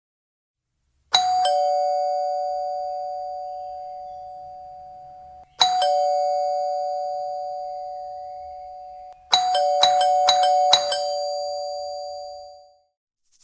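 Two-tone doorbell chime sounding "ding-dong", a higher tone falling to a lower one, with long ringing decays. It rings twice, then is pressed about four times in quick succession near the end.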